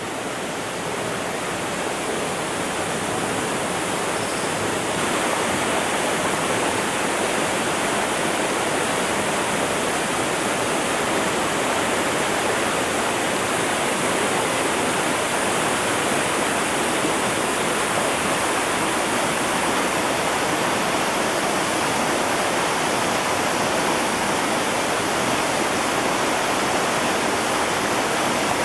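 Mountain stream rushing steadily, a little louder after the first few seconds.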